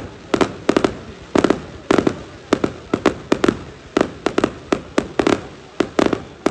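Fireworks display going off in a rapid, unbroken run of sharp bangs, often in close pairs, several a second, each trailing off briefly.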